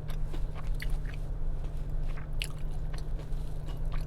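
Close-up chewing and biting with scattered crisp crunches, over a steady low hum.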